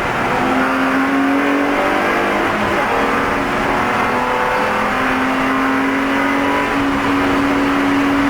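Spec E46 BMW race car's engine pulling hard under racing load on track, its pitch climbing and dropping several times as it goes through gears.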